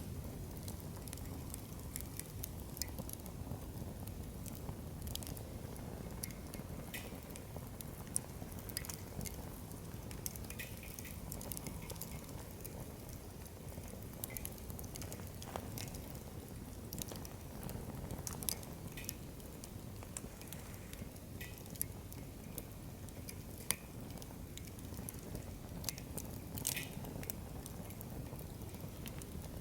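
Wood fire burning steadily, a low rumble of flames with scattered sharp crackles and pops from the burning logs.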